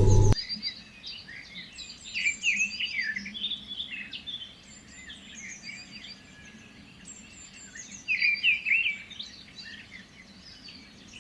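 Several small birds chirping and singing at once in quick, overlapping calls, louder around two seconds in and again around eight seconds in.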